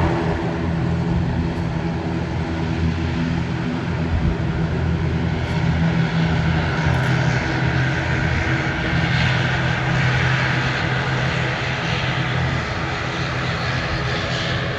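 Airliner engines running loud and steady during a takeoff: a steady low drone, with a higher whine that comes up about halfway through.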